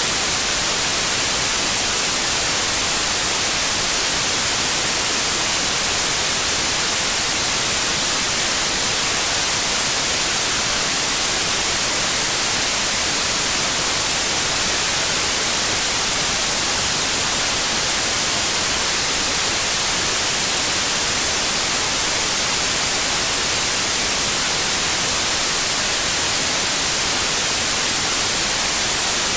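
Continuous white noise: a steady, even hiss with no changes in level.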